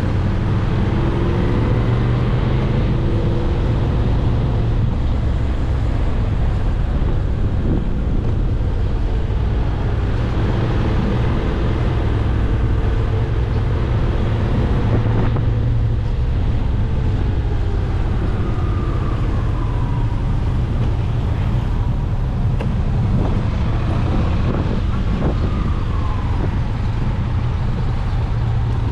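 Motorcycle riding along a road: a steady engine drone with wind and road noise, its pitch rising and falling now and then as the speed changes.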